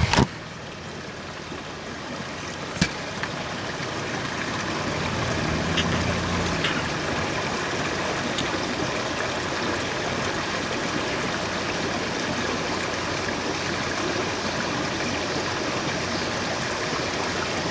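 Creek water running, a steady rushing hiss, with a few sharp clicks and a low hum that stops about six and a half seconds in.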